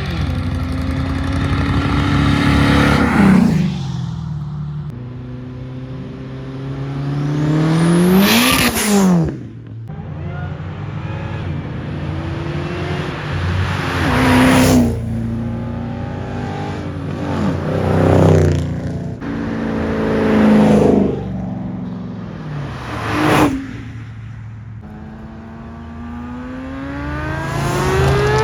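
Cars accelerating away one after another, each engine revving up hard as it passes, with about six loud passes.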